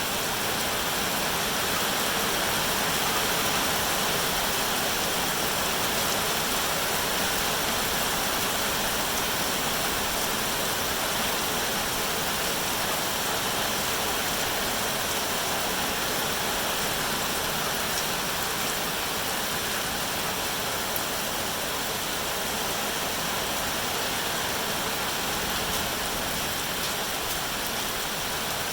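Steady rain, an even, unchanging hiss with a few faint drop ticks.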